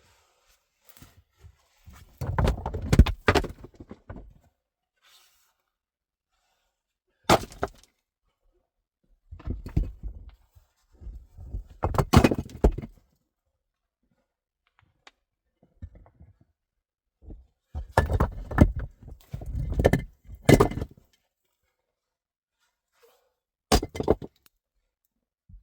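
Irregular clusters of knocks and thuds, with dead silence between them: handling of hard objects such as wood or gear.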